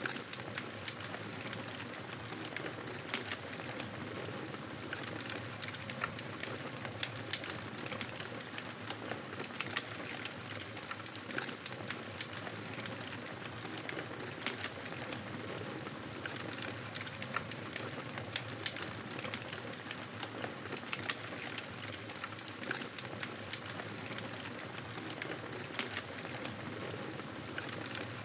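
Wood fire crackling in a fireplace: a steady hiss with frequent small irregular pops and snaps.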